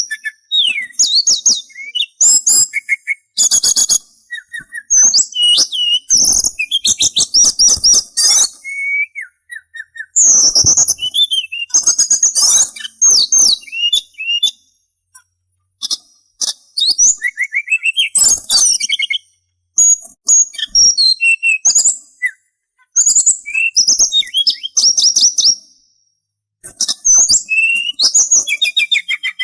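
Sulingan songbird singing a rapid, varied song of high chirps, trills and whistled glides, in bursts of a few seconds separated by short pauses.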